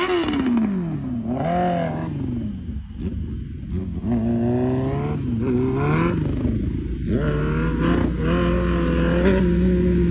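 Sport motorcycle engine revving. The pitch falls off in the first second, then rises in several pulls broken by sudden drops, like upshifts under acceleration, and holds a steadier high note near the end.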